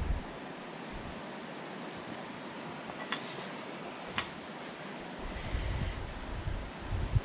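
Campfire crackling: two sharp pops about three and four seconds in, over a steady rushing noise, with low wind buffets on the microphone later on.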